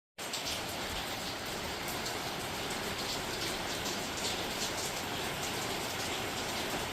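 Steady rain falling, with many separate drop impacts ticking over a constant hiss.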